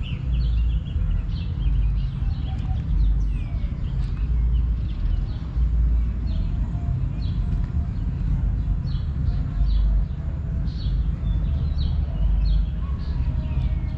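Small songbirds in park trees chirping repeatedly, with many short chirps and a few falling whistles, over a steady low rumble on the microphone.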